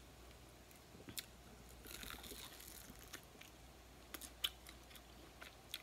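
Faint chewing and biting on a crispy fried sparerib, with scattered short crunches and mouth clicks.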